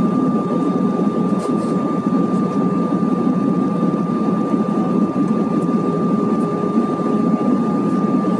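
Steady cabin noise inside an Airbus A320 in flight: an even rush of jet engines and airflow, with a thin steady high tone running over it.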